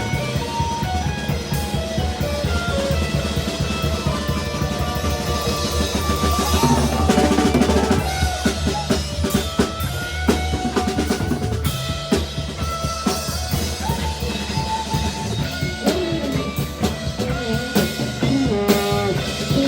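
Live band playing an instrumental passage: drum kit with a steady bass drum under guitar and bass lines.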